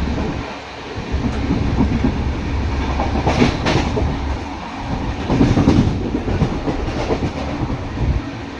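Train running on the rails: a steady low rumble with wheel clatter, swelling into louder bursts of clatter about three and a half and five and a half seconds in.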